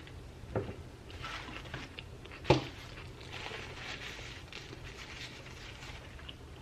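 Close-up eating sounds: a sandwich being chewed with soft crackling, with a light knock just over half a second in and a sharper, louder knock about two and a half seconds in.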